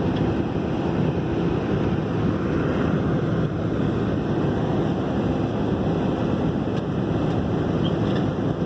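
Jet airliner's engines and rushing air making a steady, even roar.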